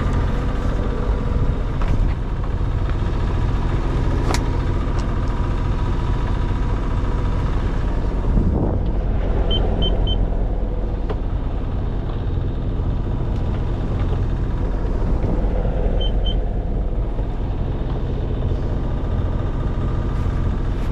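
Sailboat's inboard engine running steadily under way while motoring, a constant low drone. Three short high beeps sound about ten seconds in and two more a few seconds later.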